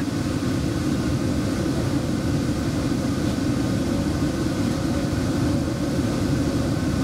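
Steady low rumble and hum of a small driverless airport people-mover train, heard from inside the train.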